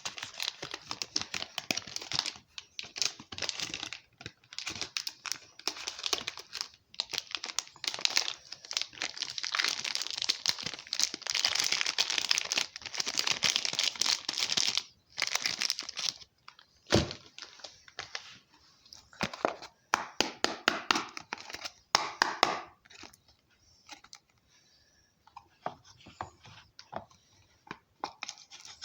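Soap bar wrappers being torn open and crinkled, in dense rapid crackles for the first half, then sparser and quieter. A single sharp knock about halfway through.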